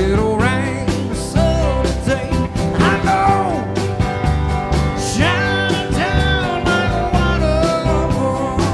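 Live band playing a country-rock song: a melody line that bends and glides in pitch over strummed guitar, bass and a steady drum beat.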